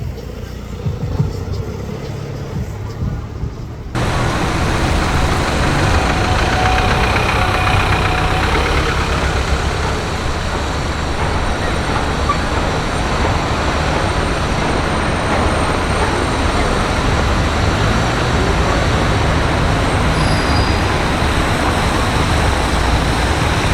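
City street traffic: a steady mix of engine rumble and tyre noise from passing road vehicles, suddenly louder about four seconds in.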